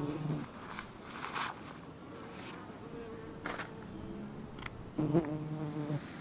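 A flying insect buzzing, loudest as it passes close at the start and again about five seconds in, with a few short rustles or clicks between.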